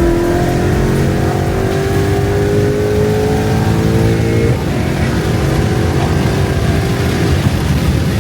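Car engine accelerating hard, its pitch climbing steadily for about four and a half seconds, then dropping sharply at an upshift, and the engine keeps pulling loudly afterwards.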